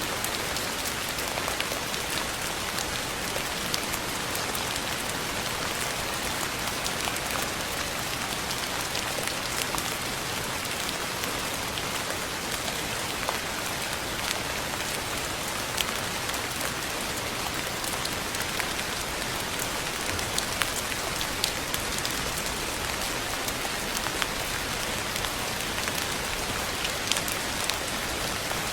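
Steady rain falling on a surface, a continuous hiss with scattered sharper drop ticks.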